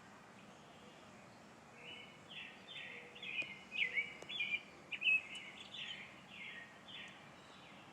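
A songbird singing: a quick run of about a dozen short chirping, whistled notes that starts about two seconds in and lasts some five seconds.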